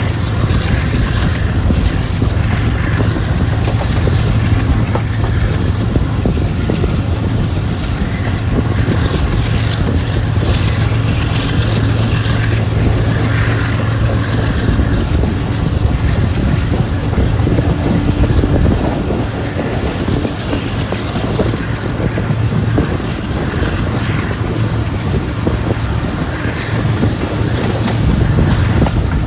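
Passenger train running at speed, heard from an open coach window: a steady low rumble of wheels on the rails mixed with wind buffeting the microphone.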